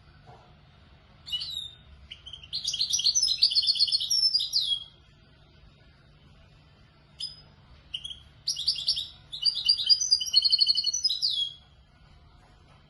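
A young European goldfinch singing in the Moroccan Marrakchi style: two bursts of rapid, high twittering trills and chirps, each a few seconds long, separated by a short pause.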